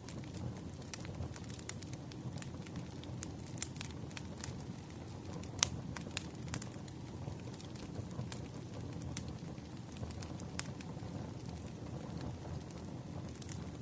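Wood fire crackling: irregular snaps and pops over a steady low rumble of the burning, with one louder pop about halfway through.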